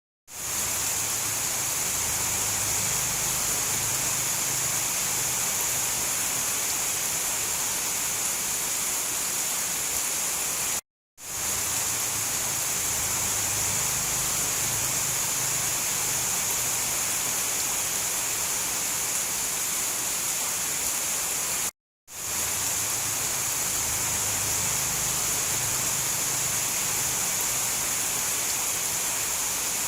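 Steady heavy rain, an even bright hiss with no thunder. It cuts out to silence twice, about eleven seconds apart, and fades back in within half a second each time.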